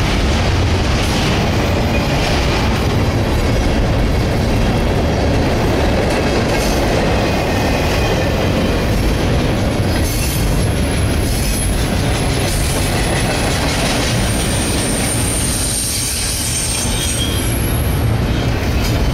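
Double-stack intermodal container train's well cars rolling past at speed, with a steady heavy rumble of wheels on rail. Thin high-pitched wheel squeals come and go through the second half.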